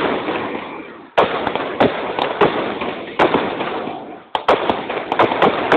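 Aerial fireworks bursting overhead: dense sharp pops and bangs, with two sudden loud booms about a second in and again past four seconds, each trailing off.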